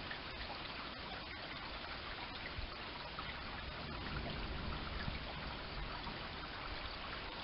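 A heavy rain shower falling steadily on roofs and a wet street, an even hiss with occasional faint ticks of drops.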